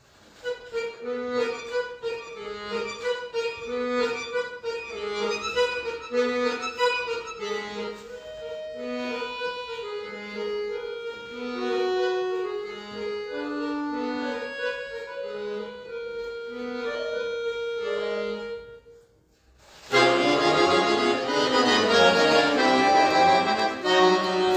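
Solo accordion playing a soft melody over a held middle note and evenly repeated low bass notes, about one a second; after a short pause about 19 seconds in, it comes in with loud, full sustained chords.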